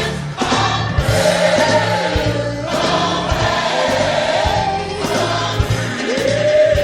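Gospel choir singing with a band, bass and drums keeping a steady beat underneath.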